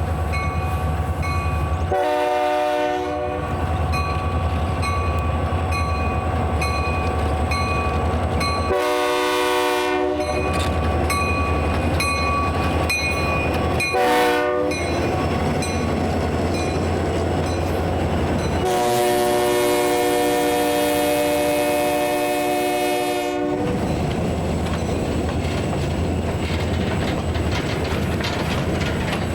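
Diesel locomotive air horn sounding the grade-crossing signal: two long blasts, a short one, then a long blast held about five seconds, over the steady low rumble of the passing train. A bell rings steadily throughout.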